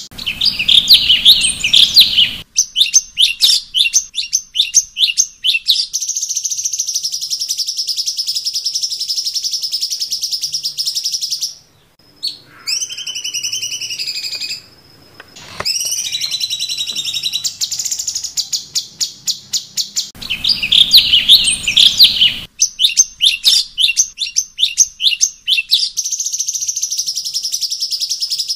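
Cucak cungkok bulbul singing a varied, high-pitched song: a run of quick repeated chattering notes, then a long, very fast even trill, a brief break about halfway through with a few sliding whistles, and then the same sequence again.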